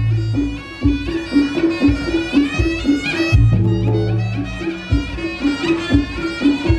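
Reog Ponorogo gamelan music: a shrill, wavering slompret (shawm) melody over a steady pulse of gong-chime beats and drum strokes, with a deep gong stroke about halfway through.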